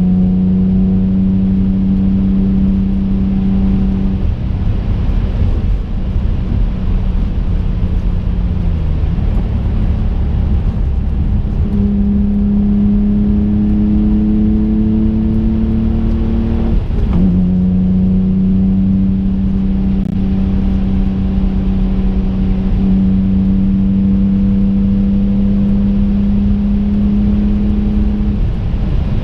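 Twin-turbo V6 of a modified 2005 Infiniti G35 coupe heard from inside the cabin while driving: a steady engine note that climbs slowly in pitch and drops twice, about nine and seventeen seconds in, over a constant low road rumble.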